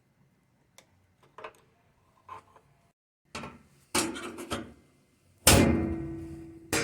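Knocks and clatter of metal parts being handled, growing louder, then a loud metallic bang about five and a half seconds in that rings out and fades, and another knock at the end.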